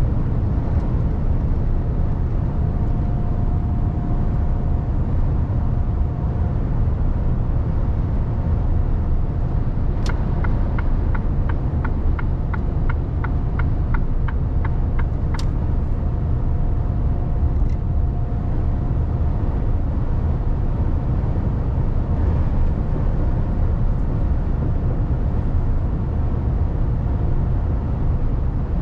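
Mercedes Actros truck driving, its engine and road noise rumbling steadily inside the cab. About a third of the way in, a regular ticking, about three clicks a second, runs for some five seconds, like the cab's turn-signal indicator.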